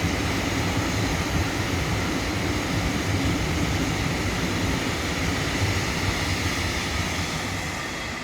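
Train passing: a steady rumble of wheels on rails that eases off slightly near the end.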